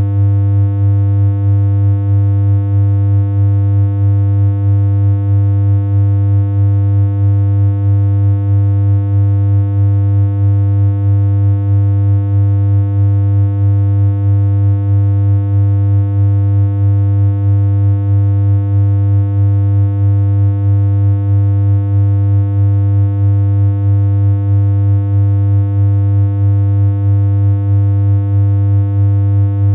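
Low, steady synthesized electronic hum on a single unchanging pitch, with a slight regular pulse in loudness.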